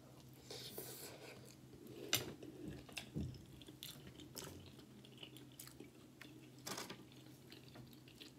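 Close-up chewing of a bite of homemade pizza: soft wet mouth sounds with scattered sharp clicks and crunches, the loudest about two seconds in and again near seven seconds.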